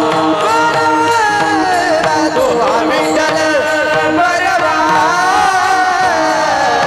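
Warkari kirtan devotional singing: a man's voice sings long, ornamented gliding melodic phrases over a steady drone note, with mridang drumming underneath.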